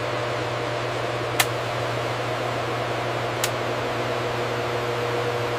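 Steady low machine hum with an even hiss, broken by two sharp clicks about two seconds apart; a faint steady tone becomes clearer in the second half.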